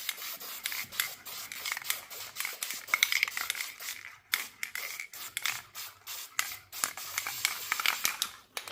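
Aerosol spray-paint can spraying a coat of paint in a run of short hissing bursts, with a brief pause about four seconds in.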